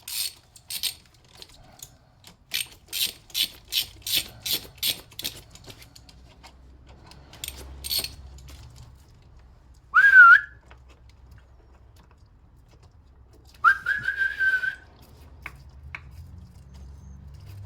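Ratchet spanner clicking in quick strokes while loosening a car battery terminal clamp. This is followed by two short whistled notes: the first, the loudest sound, swoops up and down, and the second is held nearly level for about a second.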